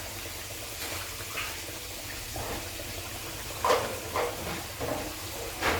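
Onions frying in oil and butter in a pot, a steady sizzling hiss, with a few light clinks and scrapes scattered through it, the clearest near the end.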